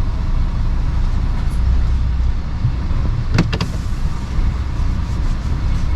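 Lorry running with a steady low rumble, and two sharp clicks close together a little over three seconds in.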